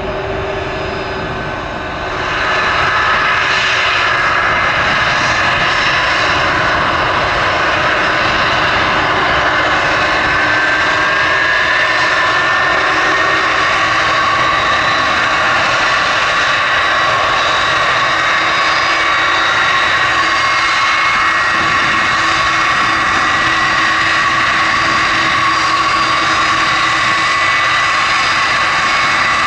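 Jet airliner engines running loud and steady, a high whine over a broad roar. The sound steps up sharply about two seconds in, and the whine glides slightly higher in pitch around ten seconds in.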